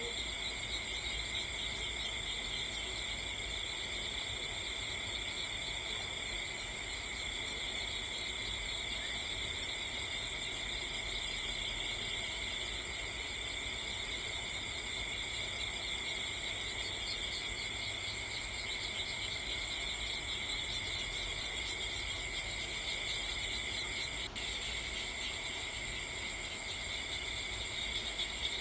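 Steady, unbroken chorus of crickets trilling in several high-pitched bands, with one faint sharp click about 24 seconds in.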